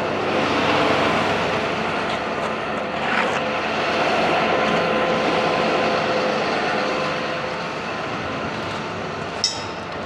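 A vehicle running steadily, an even, loud noise with faint steady tones in it, and one sharp click near the end.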